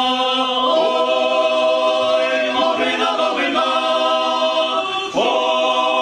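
Church choir singing a Ukrainian Christmas carol (koliadka) a cappella, several voices holding long chords with short breaths between phrases.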